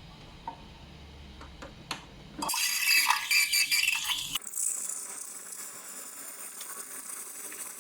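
Small metal parts of an espresso machine clattering and clinking for about two seconds, followed by a steady hiss that lasts to the end.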